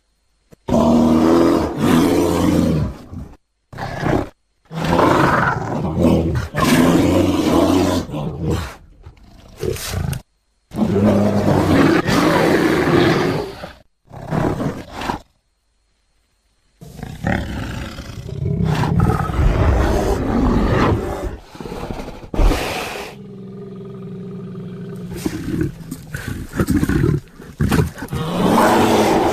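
A string of loud bear vocalizations, edited sound-effect clips from sun bear and black bear recordings, each cut off sharply with short gaps of dead silence between them. About two-thirds through, a quieter, steadier drawn-out call sounds.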